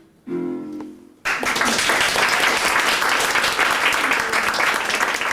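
A last short note of the song's accompaniment rings and fades, then audience applause breaks out suddenly about a second in and carries on steadily.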